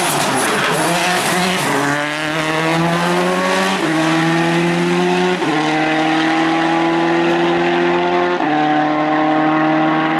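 Rally car engine accelerating hard through the gears: its note climbs and drops back at four upshifts. A rush of tyre noise comes before the engine note comes through clearly.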